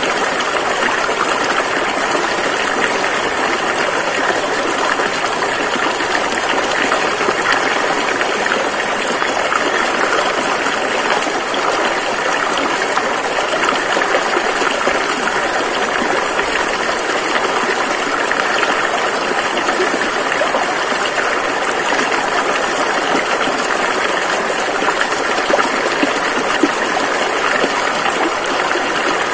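River water rushing over rocks, a steady, even roar.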